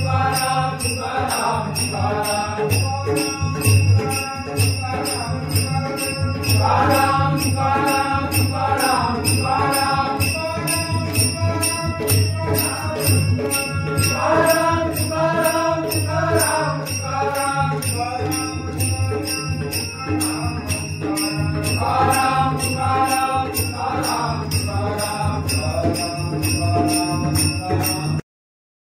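Warkari bhajan: a lead singer's devotional singing over a steady beat of small hand cymbals (taal) and a low accompaniment. The sound cuts out briefly near the end.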